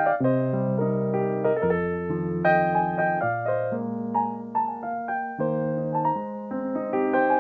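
Solo piano playing: held bass notes that change every second or two under a melody line.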